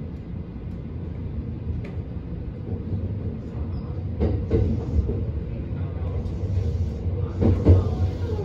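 Inside the cabin of an E657 series electric limited express train pulling away from a station: a steady low running rumble that grows louder. A few sharp knocks come about halfway through and again near the end.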